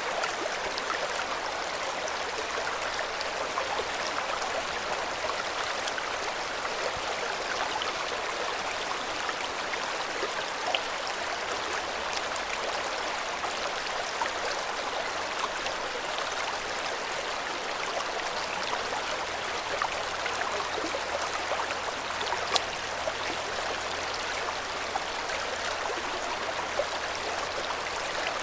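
River water flowing steadily over stones, an even rushing with small splashes and gurgles throughout.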